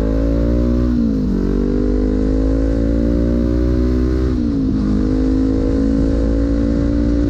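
Motorcycle engine accelerating hard through the gears. Its pitch climbs steadily and drops sharply at an upshift about a second in and again about four and a half seconds in, over a steady low rumble. It fades away near the end.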